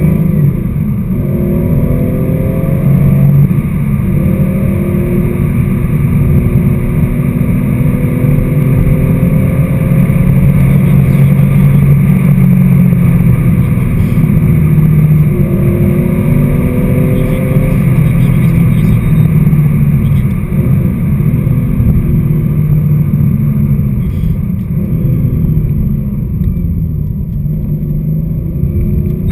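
Porsche 911 SC's air-cooled flat-six heard from inside the cabin, revs climbing and dropping back again and again as it pulls through the gears. It runs quieter over the last several seconds.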